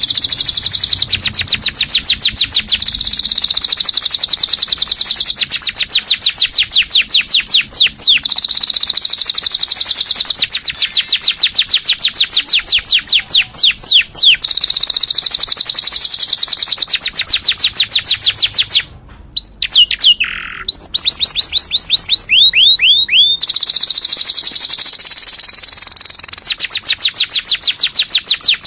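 Canary singing: long, fast rolling trills in phrases of a few seconds each. About two-thirds through there is a brief break, then a few slower falling notes before the rapid trills resume.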